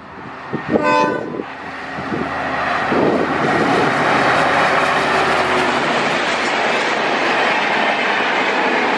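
An EMD diesel locomotive sounds a short horn blast about a second in. It is followed by the rising, then steady, sound of the diesel-hauled passenger train running past, with wheels clattering on the rails.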